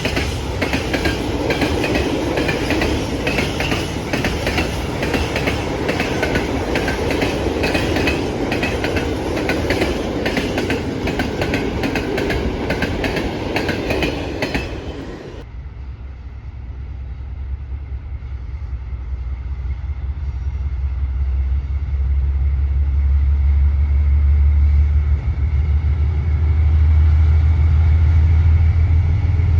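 A train passing close by, its wheels clicking over the rail joints in a fast clickety-clack. About halfway through this cuts off sharply, and a deep engine rumble takes over and grows steadily louder as it approaches.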